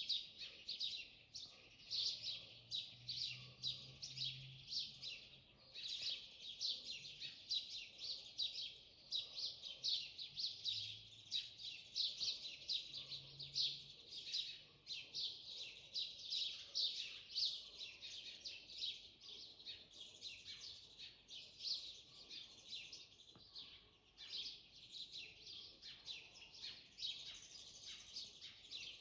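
Many small birds chirping and singing together in a dense, continuous chorus of quick high notes.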